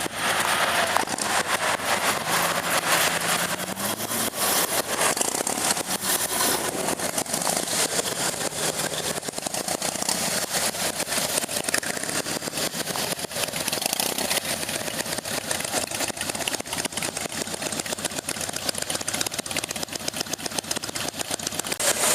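V8 engine of a 1968 Holden Monaro HK GTS running, its exhaust beating with a rapid, uneven pulse.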